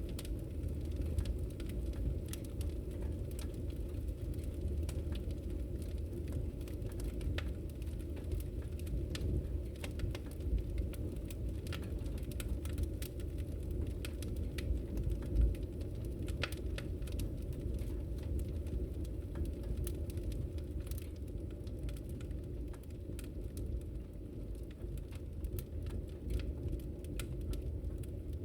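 Wood fire in a fireplace crackling, with irregular small pops over a steady low rumble of the flames and one louder pop about halfway through.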